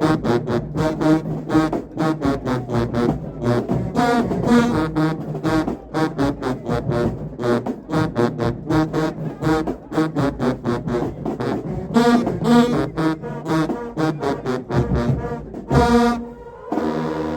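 Marching band playing: brass horns over fast, driving drum beats, with a long held brass chord near the end.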